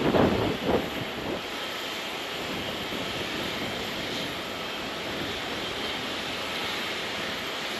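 Steady jet aircraft engine noise, an even rushing hiss. Wind buffets the microphone with a few loud thumps in the first second.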